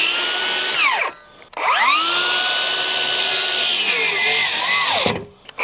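Electric power tool motor running at a steady high whine. It winds down about a second in, then spins up again and runs for about three and a half seconds, dipping briefly near the end before winding down.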